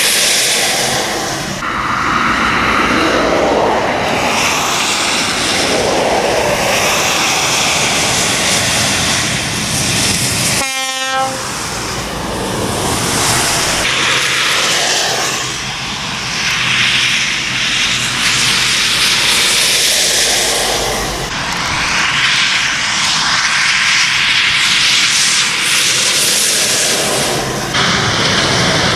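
Heavy trucks passing one after another on a wet road, their tyres hissing through the spray, the noise swelling and fading with each one. One short horn blast sounds about a third of the way through.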